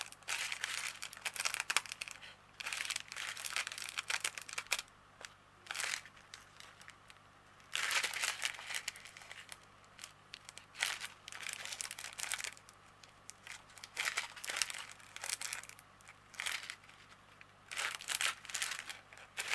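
Small plastic bags of diamond painting drills being handled and crinkled, in irregular bursts of rustling with short pauses between them.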